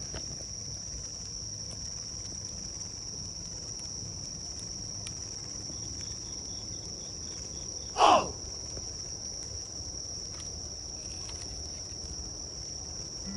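Night insects chirping in a steady high-pitched trill. About eight seconds in, one brief, much louder sound sweeps quickly down in pitch.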